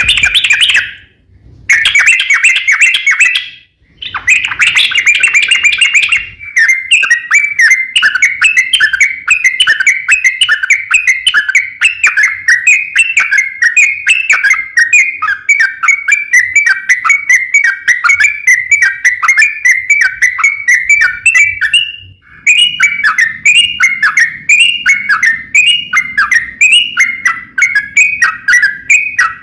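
Crokcokan songbird singing a fast chattering song of rapidly repeated high notes, several a second. The song breaks off briefly about a second in, again around four seconds, and once more about two-thirds of the way through.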